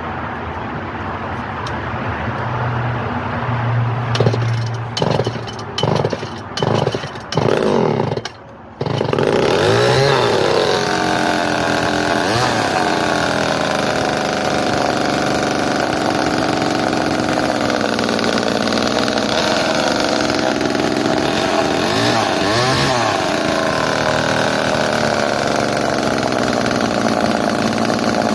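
Early 245A chainsaw's two-stroke engine being cold-started: several quick pulls on the starter cord, then it catches about nine seconds in. It keeps running, its pitch rising and falling a few times as the throttle is worked.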